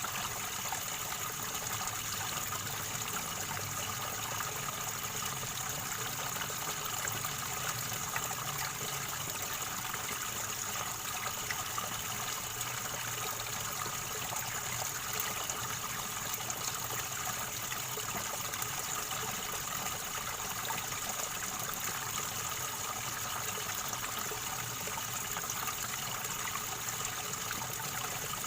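River water gurgling and trickling over stones in a steady, unbroken flow.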